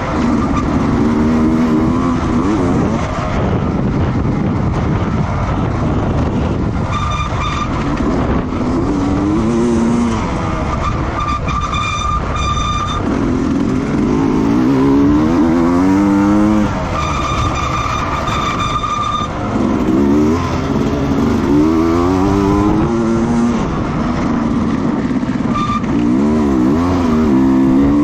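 Racing engines running flat out at speed, their pitch climbing and dropping again and again through acceleration, gear changes and passes. A thin high whine comes and goes several times over the steady rush of engine and tyre noise.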